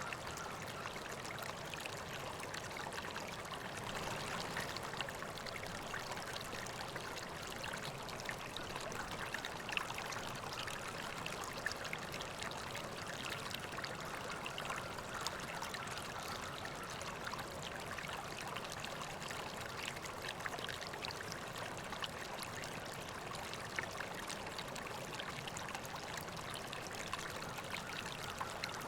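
River water flowing steadily over rocks, a constant rushing with many small splashes and trickles.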